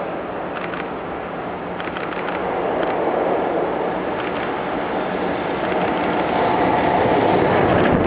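A freight train hauled by an EF66 electric locomotive running past: a steady rumble of wheels on rail with a few light clicks, growing louder toward the end.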